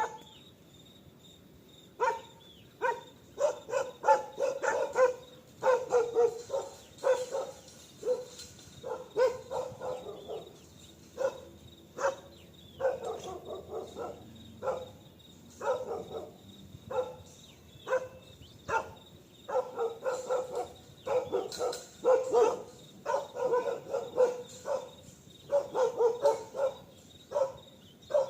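A dog barking over and over in quick volleys of short barks, with brief pauses between the volleys.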